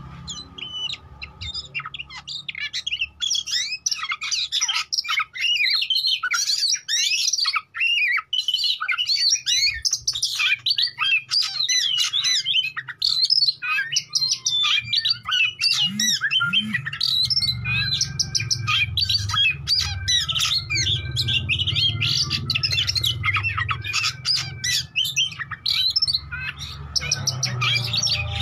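Oriental magpie-robin singing a fast, varied song of chirps, whistles and harsh squawking notes without a break. A low steady hum sits underneath in the second half.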